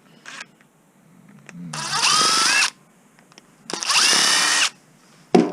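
Power drill run twice, about a second each, its motor whine rising in pitch and then holding steady. A short sharp knock follows near the end.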